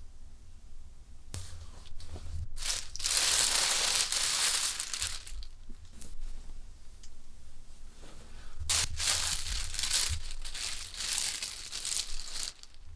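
Rustling and crinkling, as of things being handled, in two long stretches: about three to five seconds in and again from about nine seconds to near the end, with a few short scrapes between.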